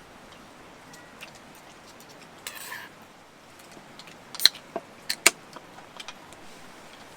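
Eating utensils clinking and scraping against a dish during a meal: a short scrape about two and a half seconds in, then a few sharp, slightly ringing clinks around four to five and a half seconds.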